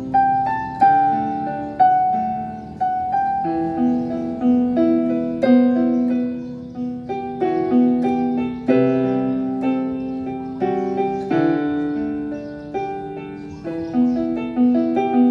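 Casio CTK-625L keyboard's grand piano tone playing a melody over chords through its built-in speaker. Each note starts sharply and decays.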